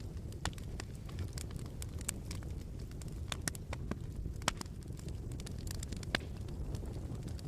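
Wood fire crackling in a fireplace: irregular sharp pops and snaps over a low steady rumble, with a few louder pops through the middle.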